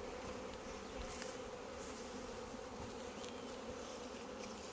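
Honey bees buzzing steadily around an open hive.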